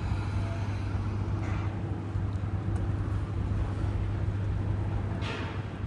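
Steady low engine rumble, with a short whoosh falling in pitch about five seconds in.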